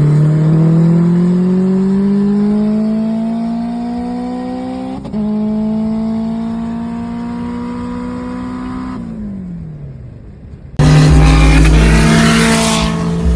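Front-wheel-drive car accelerating hard, engine pitch climbing steadily, with one upshift about five seconds in, then climbing again until the driver lifts off and the revs fall away. Near the end a sudden, much louder stretch of engine noise begins, with wind buffeting the microphone.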